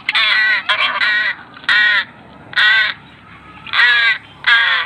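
Young crow cawing repeatedly: about six harsh, rasping calls in quick, uneven succession, the begging calls of a hungry chick being fed.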